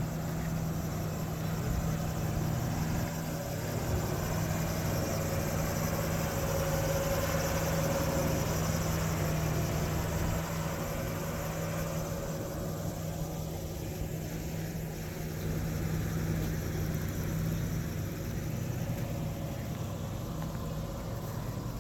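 A vehicle engine idling steadily, with a constant low hum and a fainter steady higher tone.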